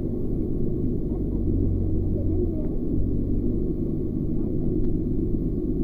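Jet boat engine running with a steady low rumble, and faint voices over it.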